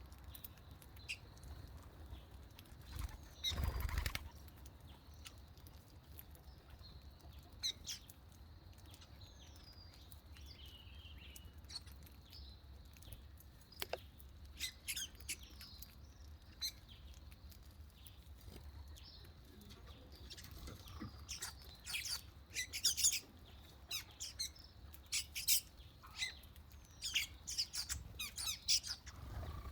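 Small birds chirping in quick, high calls, scattered at first and much busier in the second half. There is a brief rustling burst about four seconds in, over a low steady rumble.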